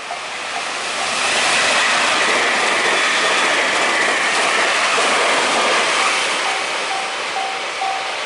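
A train passing at speed over a level crossing: running noise that builds over about the first second, holds loud, and fades from about six seconds in. As it fades, the crossing's warning bell comes back through, ringing in rapid repeated pulses.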